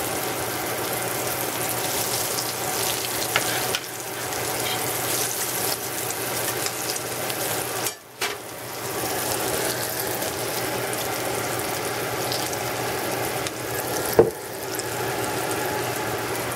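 Breaded zucchini slices shallow-frying in hot oil on medium-high heat: a steady sizzle and bubbling. The sound drops away briefly about halfway through, and there is a short knock near the end.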